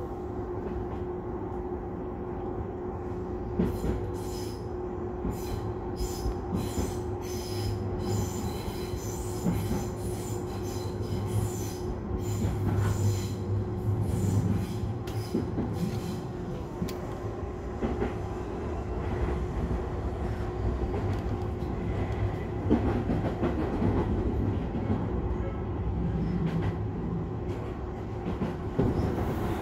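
Tobu line express commuter train running at speed, heard from inside the car: a steady rumble and motor hum, with the wheels clicking rhythmically over rail joints for several seconds before the clicks grow fainter.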